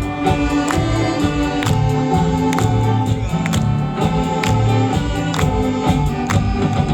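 Saxophone big band playing a trot-style popular-song medley: sustained horn lines and chords over a steady drum beat.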